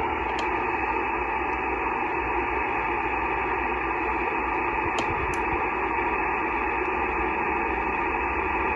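Shortwave transceiver receiving single-sideband on the 15 m band: steady band hiss and static through the narrow receive filter, with no signal on the frequency. A couple of faint clicks about halfway through.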